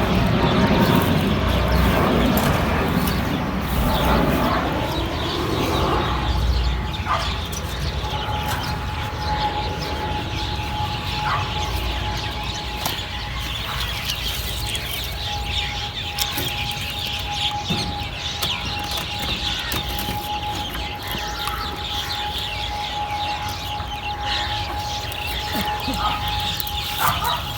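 Many chickens calling, with dense overlapping peeps. A low rumble runs through the first few seconds, and a steady thin tone comes in about six seconds in and holds almost to the end.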